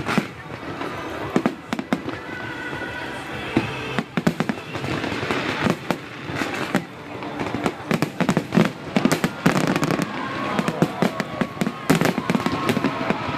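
Aerial fireworks bursting in rapid, overlapping volleys of sharp bangs and crackles, coming thicker from about four seconds in.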